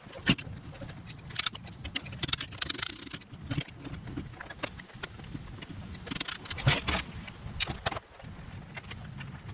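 Irregular metallic clinks, knocks and scrapes of suspension parts and tools being handled, with a cluster of louder clanks about six to seven seconds in.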